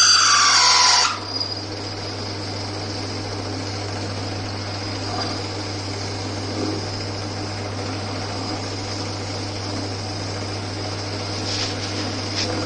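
Old Winfield lathe drilling a part in the chuck: a loud squeal from the drill bit cutting, falling in pitch and stopping about a second in. The lathe then runs on with a steady hum and a faint high whine, with a couple of light taps near the end.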